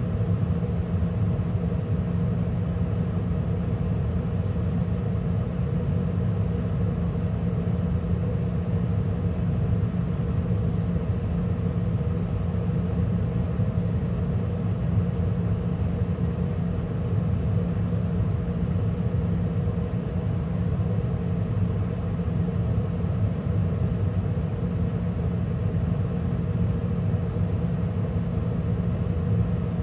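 2013 Carrier gas furnace running steadily mid-cycle, burners lit with the inducer motor and circulating blower going: an even rumble of rushing air and flame with a low, steady hum.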